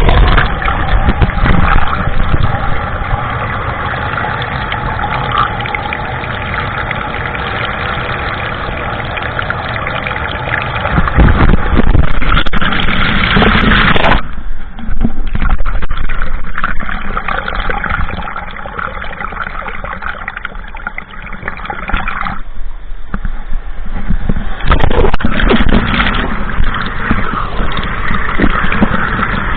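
Rushing waterfall water heard through an EK7000 action camera set in the falls: a loud, steady roar that changes abruptly between shots.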